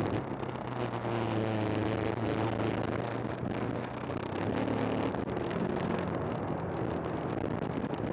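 KTM 390 Adventure's single-cylinder engine running steadily under way, its note shifting a little twice, over a hiss of tyre and wind noise.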